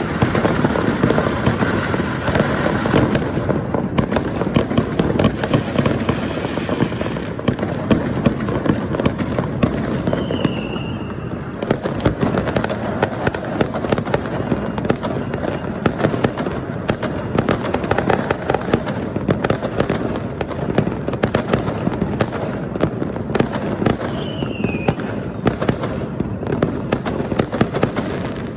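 Dense, continuous crackling of many firecrackers and fireworks going off at once, with no gaps. Two brief falling whistles cut through the crackle, one about ten seconds in and one near the end.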